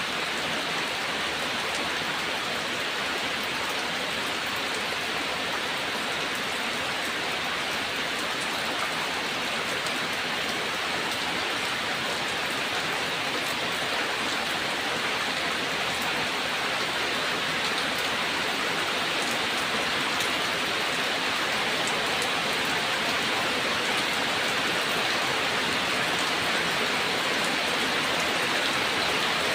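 Steady rain falling: an even, dense hiss of many drops with no thunder.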